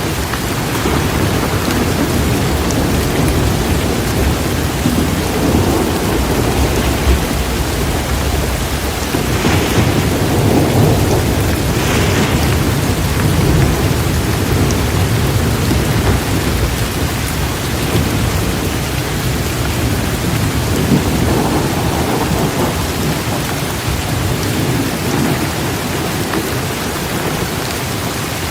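Heavy torrential rain pouring steadily, with deep thunder rumbling underneath. Brief sharper surges come about ten and twelve seconds in.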